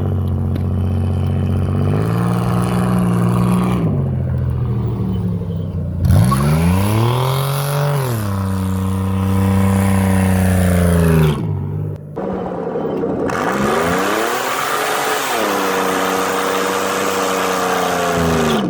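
Turbocharged V6 of a 1996 Pontiac Trans Sport minivan revving up and easing back several times, the biggest rise about six seconds in. A rushing hiss runs over the engine during the higher-rev stretches, and the sound drops out briefly about twelve seconds in.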